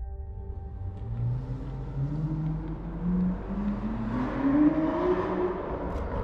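Aston Martin V12 Speedster's V12 engine, fitted with a sport exhaust, accelerating, its note rising steadily in pitch for about four seconds.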